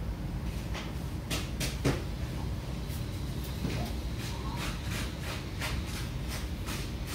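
Irregular light clicks and taps over a low steady hum, with one slightly louder knock about two seconds in.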